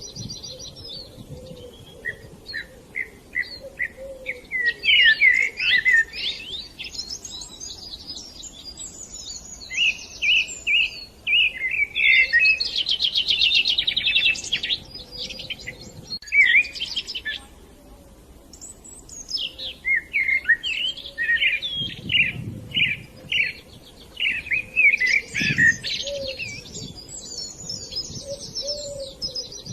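Budgerigars chirping and chattering in repeated bursts of short warbling calls, with a fast buzzy trill about halfway through.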